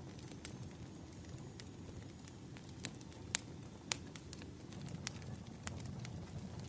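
Burning firewood crackling: irregular sharp pops and snaps, a few of them louder, over a steady low rumble.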